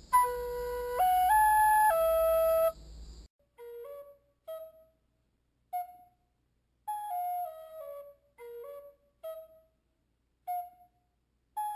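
Flute-like wind instrument playing a melody. It starts with a few loud held notes stepping up and then down, and from about three seconds in it plays short notes in falling phrases with brief gaps between them.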